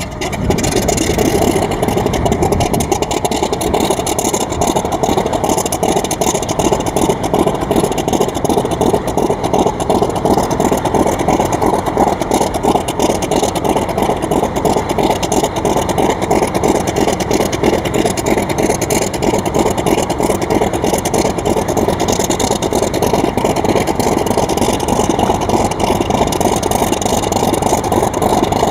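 Small motor of a mini model aeroplane, switched on suddenly and then running steadily with a loud, even buzz.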